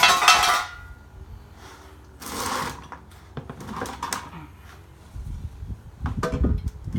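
Metal clattering and scraping from handling metal parts: a loud clatter with a short ring right at the start, another scrape about two seconds in, a few sharp clicks, then low thuds near the end.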